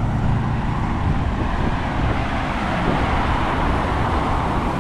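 Road traffic close by: vehicle engines running, with the noise swelling about halfway through as a vehicle comes past.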